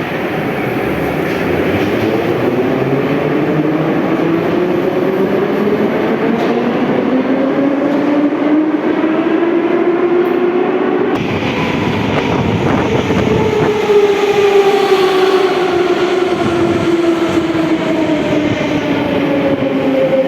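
Moscow metro electric train: the traction motors whine in several tones that rise steadily as the train picks up speed, over wheel and track rumble. About halfway through the sound changes abruptly, and a whine that falls slowly in pitch follows as a train slows.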